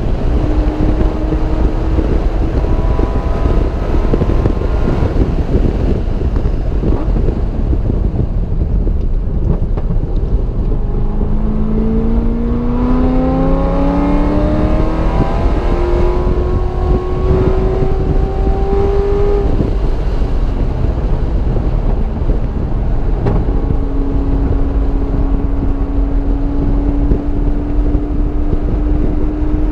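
Car engine running hard on a race track, with a dense low rumble and road and wind noise. Its pitch climbs and steps through gear changes in the middle, drops sharply shortly after that, then holds nearly steady and slowly rises again.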